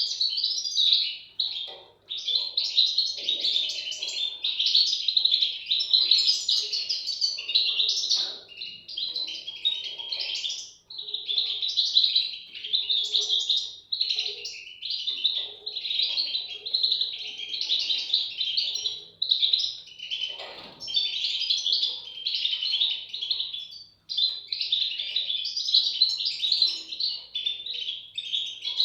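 European goldfinch chicks calling: a dense, almost unbroken twittering of rapid high chirps, with a few short pauses.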